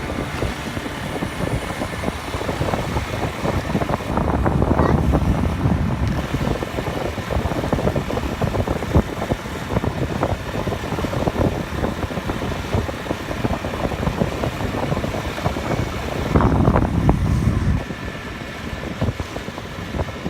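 Road noise from riding a motorbike through traffic: a steady rumble of engine, tyres and passing vehicles. It swells louder twice, about four seconds in and again near the end.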